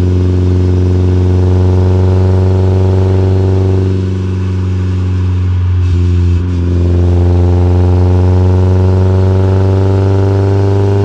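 Porsche 944 2.5's four-cylinder engine running through a Fox sport exhaust under steady load. About six seconds in the note breaks briefly, then climbs slowly in pitch.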